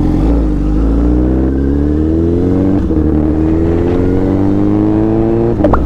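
Honda CBR1000RR SP1's inline-four engine accelerating hard, its pitch rising steadily through one gear, then a shift about three seconds in and a second rising pull through the next gear.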